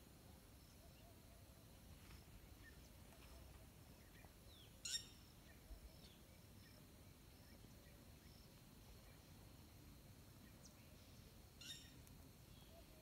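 Near silence with faint outdoor ambience and a few short bird chirps, the two plainest about five seconds in and near the end.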